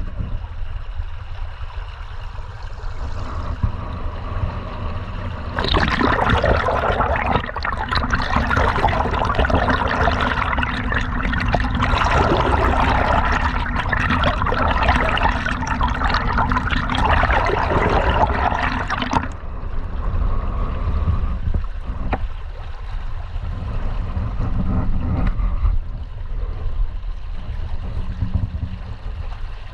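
River water flowing and gurgling under a steady low rumble. A louder rushing stretch starts abruptly about six seconds in and cuts off abruptly around nineteen seconds.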